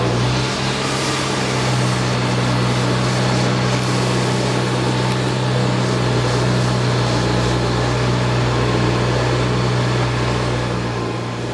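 A heavy engine running steadily at idle, with a constant low hum, fading out near the end.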